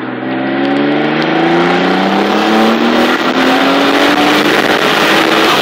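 Mitsubishi 3000GT VR-4's twin-turbo V6, fitted with 15G turbochargers, accelerating hard in gear, heard from inside the cabin. The engine note rises steadily as the revs climb from about 2,000 to about 6,000 rpm.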